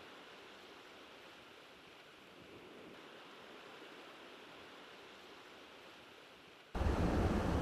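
Faint, steady wash of sea surf on the shore. Near the end it cuts suddenly to a much louder, low rumbling outdoor noise.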